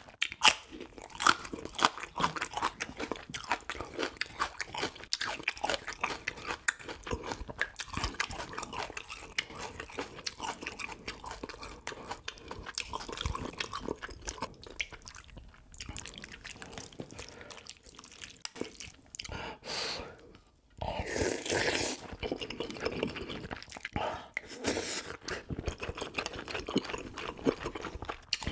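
Close-up eating sounds: crunchy bites and chewing of a raw green chili pepper, then wet chewing of spoonfuls of soft tofu stew and rice. The sound is a steady run of small crunches and mouth clicks, with a couple of longer wet, noisy stretches past the middle.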